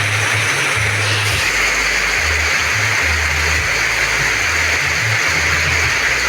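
Heavy rain falling steadily, a dense even hiss. Underneath runs a low bass line of music, its notes changing every half second or so.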